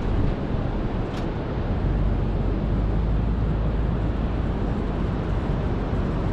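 Steady low rumble and road noise of a vehicle driving, with a faint click about a second in.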